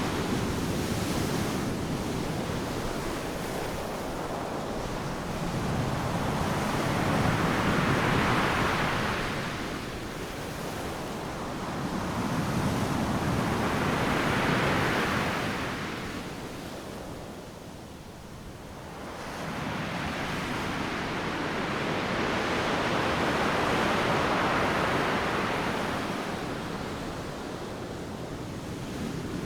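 Ocean waves breaking on a beach: a continuous surf roar that swells and ebbs, with three big surges and a brief lull between the second and third.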